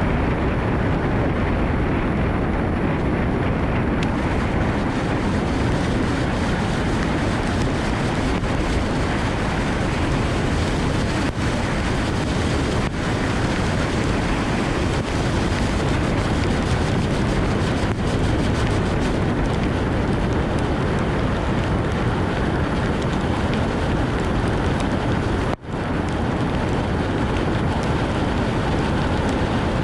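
Steady rushing noise of a car driving in heavy rain: tyres on the wet road and wind, with a brief break in the sound about 25 seconds in.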